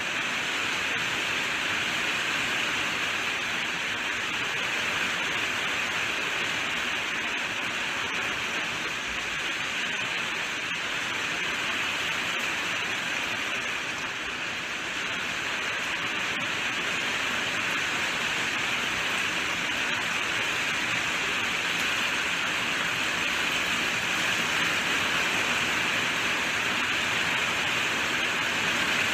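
Steady heavy rainfall, an even hiss without distinct drops or thunder.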